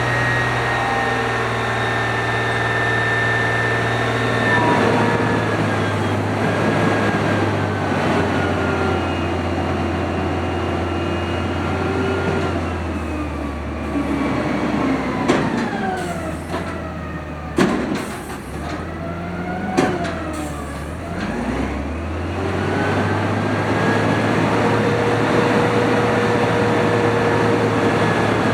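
Automated side-loader garbage truck running, its engine and hydraulic whine rising and falling in pitch as it works, with three sharp metal bangs near the middle.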